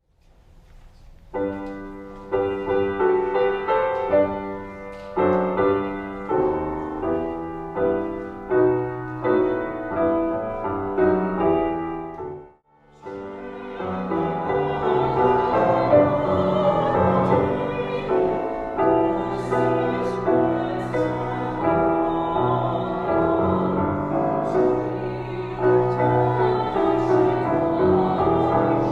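Live performance of a national anthem: piano chords, a short pause about twelve seconds in, then voices singing with piano accompaniment.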